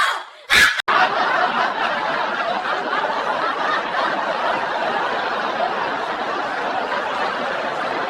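Crowd laughter, beginning suddenly just under a second in as a steady, dense wash that carries on without a break.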